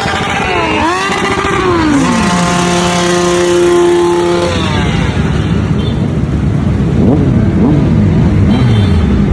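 Honda VFR750 motorcycle's V4 engine revving up and down, then holding a steady note for about two seconds before the revs drop away into a lower, rougher engine sound.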